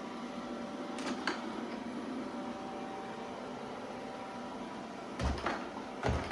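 Shark Ion Robot RV750NL robot vacuum running with a steady motor hum and a faint whine. Two light clicks come about a second in, and two heavier knocks come near the end.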